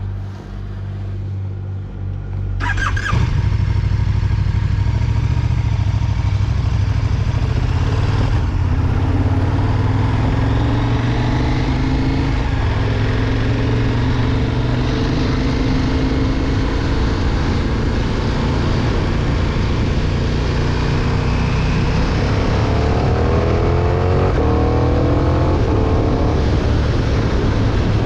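2020 KTM 1290 Super Duke R's V-twin engine, idling with a steady low note for the first few seconds, then loud as the bike rides off about three seconds in. Near the end the engine note rises and falls repeatedly as the revs change, under a haze of noise.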